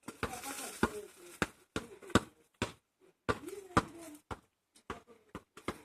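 Bonfire crackling: a string of sharp, irregular cracks and pops, some loud, spaced a fraction of a second apart, with faint voices underneath.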